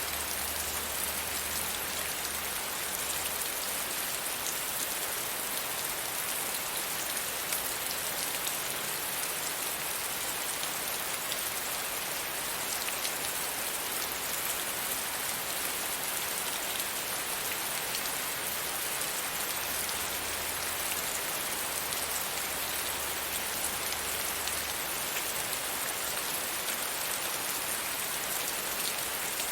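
Soft rain falling steadily: an even hiss of rain with scattered individual drops.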